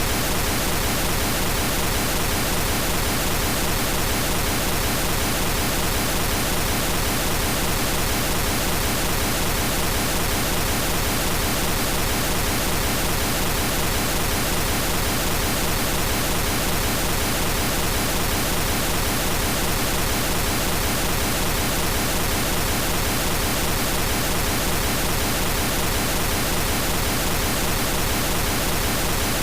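Steady periodic pink noise test signal, a short noise sequence looped, in the left channel only: an even, unchanging hiss across the whole range from deep to high.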